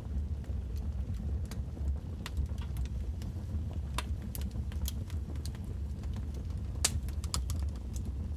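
Wood fire crackling in a fireplace: irregular sharp pops and snaps over a steady low rumble, with the loudest pops about four and seven seconds in.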